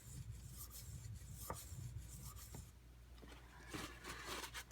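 A knife blade stroked back and forth on a coarse 320-grit whetstone with light pressure, laid flat on the stone to thin and convex the edge: a steady run of soft scraping strokes. The strokes stop a little under three seconds in.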